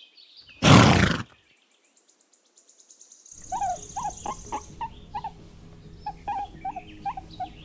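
A pony snorting once, a short loud blow through the nostrils about a second in. After a pause, a run of quieter short chirping calls repeats a couple of times a second.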